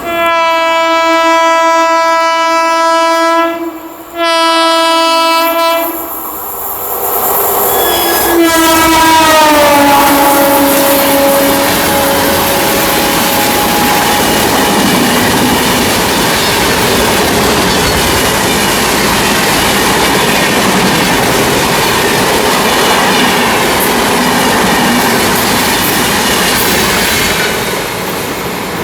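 Indian Railways express locomotive horn: two long blasts, then a third whose pitch drops as the train passes at speed. The coaches then rush by with a steady rumble and clickety-clack of wheels on the rail joints.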